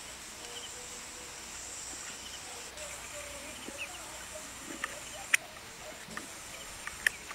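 Steady outdoor hiss with faint, scattered bird chirps, then a few sharp short chirps or clicks in the second half, the loudest about five seconds in.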